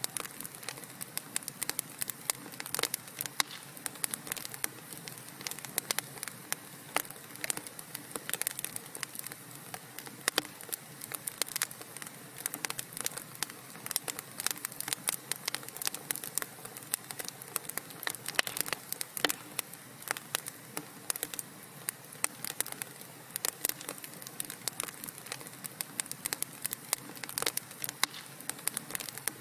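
Wood fire burning in a fireplace, crackling with many sharp irregular pops and snaps over a soft steady hiss.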